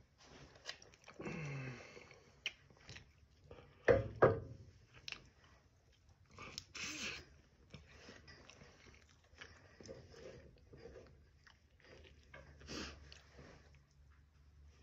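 A person chewing a mouthful of a filled tortilla, with small wet mouth clicks throughout, a brief falling hum about a second in, and a loud double knock about four seconds in.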